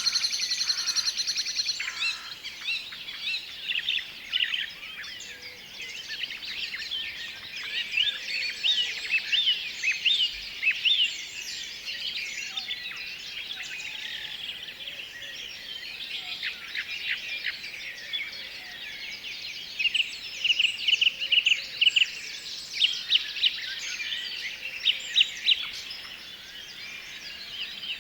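Several songbirds singing and calling over each other in a dense stream of quick chirps and trills. A fast trill comes right at the start, and another rapid run of notes about twenty seconds in.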